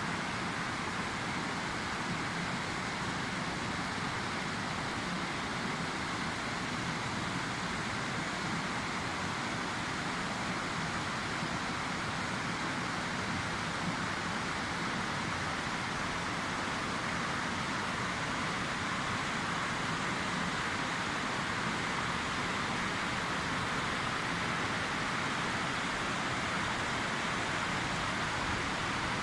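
Waterfall: the steady rush of falling water, unbroken and even throughout.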